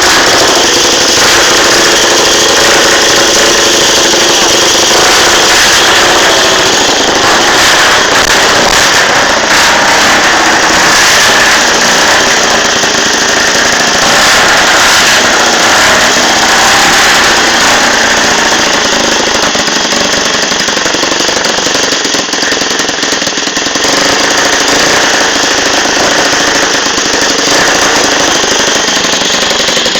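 Motorcycle engine running hard, very loud and steady, with its exhaust blasting close to the microphone. It dies away right at the end.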